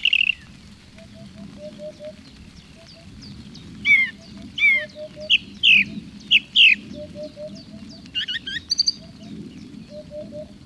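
Common hoopoe calling its soft, low 'oop-oop-oop', three hoots at a time, repeated every second or two. Over it another bird gives louder, higher chirping calls in the middle and a quick run of notes a little after.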